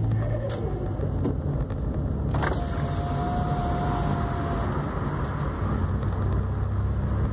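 VW up! TSI's turbocharged three-cylinder engine running as the car is driven. About two and a half seconds in, a rushing hiss and a steady turbo whistle start; they cut off suddenly a little past halfway, and the engine carries on underneath.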